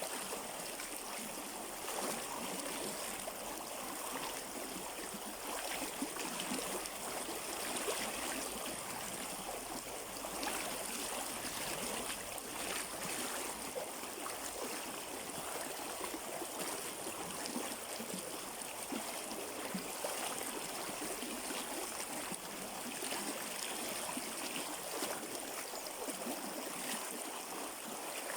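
River water flowing in a steady, even rush, with small gurgles and splashes throughout.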